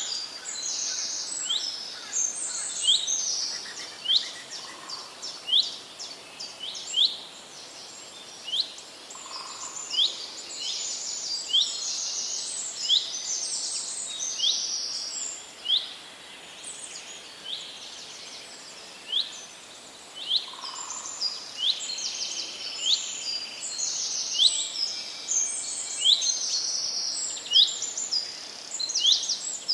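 Several forest birds singing, with many high chirps and whistles overlapping and a short sharp call repeated about once a second.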